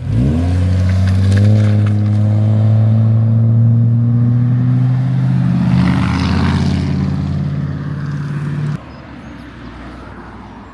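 A car engine revs up sharply, then holds a loud, steady engine note as the car drives by, swelling briefly with extra noise partway through. The engine sound drops off abruptly near the end.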